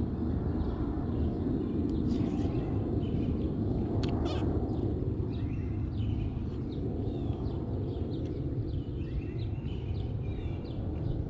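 Birds chirping over a steady low background rumble, with many short, quick calls scattered through it, more of them in the second half.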